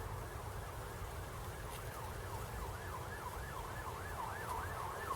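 Faint emergency-vehicle siren in a rapid yelp, its pitch rising and falling a few times a second and quickening, over a low rumble.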